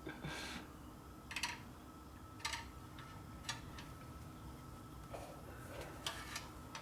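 Light metallic clicks and taps as a thin tube is worked and bent by hand around a motorcycle frame: single clicks about once a second, then a few quicker ones near the end.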